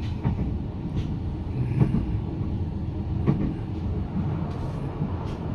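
Moving passenger sleeper train heard from inside the compartment: a steady low running rumble with a few light clicks and knocks scattered through it.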